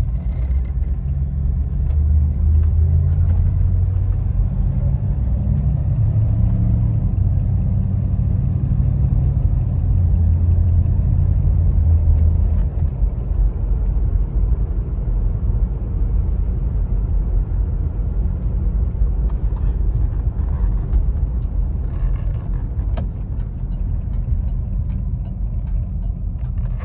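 1970 Chevrolet Nova SS's V8 engine running while the car is driven, rising to a louder pull from about two seconds in, then easing to a lower, steadier run about halfway through. A few light clicks are heard near the end.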